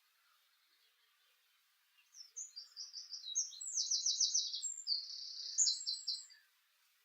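A small songbird singing one rapid, high-pitched song of quick notes and trills. It starts about two seconds in and lasts about four seconds.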